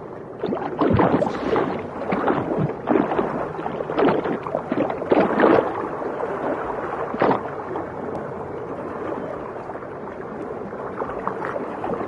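Irregular water sloshing and bubbling, in uneven swells with no steady tone.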